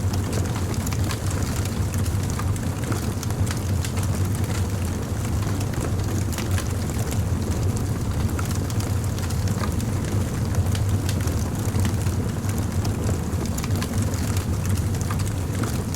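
Fire crackling continuously: many small, irregular sharp pops over a steady low rumble.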